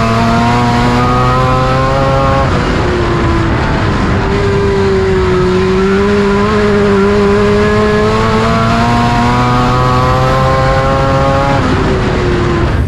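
Race car engine at full throttle during a practice lap. Its pitch climbs steadily, drops sharply as the driver lifts about two and a half seconds in, then climbs again for about seven seconds before dropping once more near the end.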